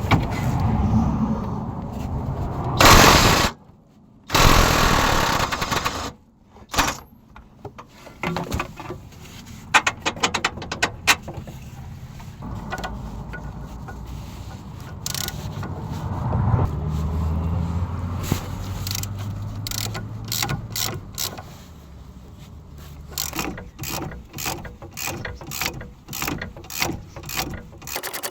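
Hand-tool and power-tool work on a car's front suspension. Two loud bursts of a power tool come in the first few seconds. Later there are long runs of quick metallic clicks from a socket ratchet, with abrupt breaks between the sections.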